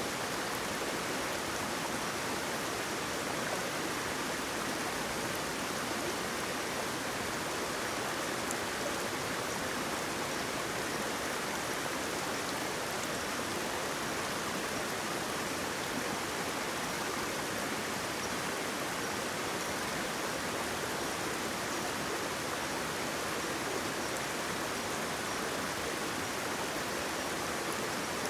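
Waterfall: a steady, unbroken rush of falling water that does not change in level.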